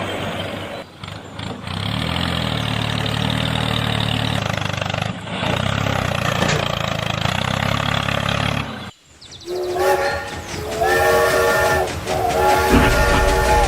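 A small engine running steadily. About nine seconds in it breaks off, and a multi-note horn sounds in long held blasts with short gaps between them.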